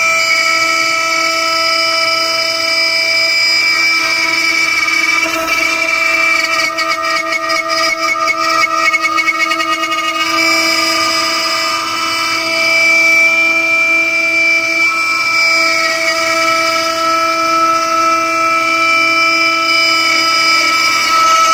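CNC router spindle with a compression bit spinning at speed under test, a loud steady high-pitched whine. For a few seconds in the middle, a rapid fine rattle joins it.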